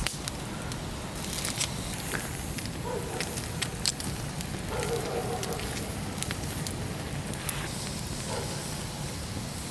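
Campfire crackling, with sharp pops and snaps at irregular intervals.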